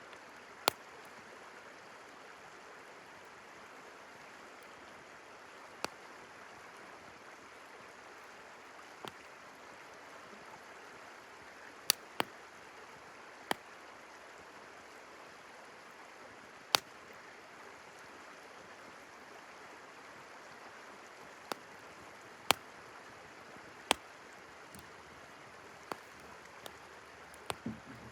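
Wood campfire crackling, with sharp, irregular pops every few seconds over the steady rush of a river.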